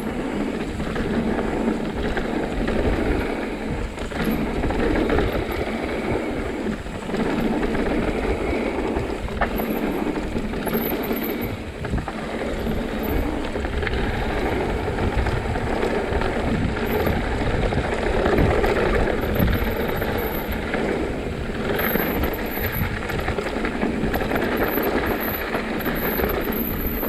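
Continuous rough rumble and rattle of riding fast down a rocky downhill trail, mixed with wind noise on the microphone, surging and easing without a break.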